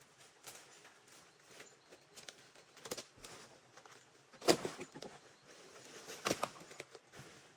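Scattered light knocks and rustles, with two louder knocks about four and a half and six and a half seconds in.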